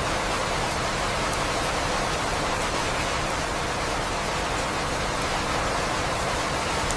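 Steady rain falling, an even hiss with no thunder or other events.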